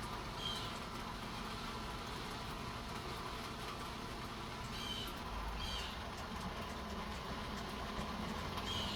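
Steady hiss and hum of an electric fan with light rain, with a few brief, high, falling chirps scattered through: hummingbirds calling to each other.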